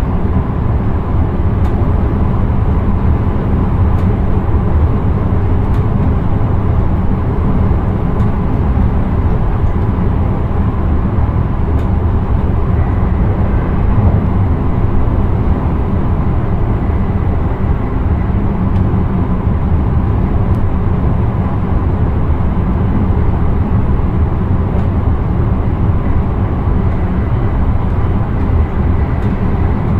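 Steady rumble and rolling noise of a running intercity train, heard from inside the driver's cab, with faint ticks now and then.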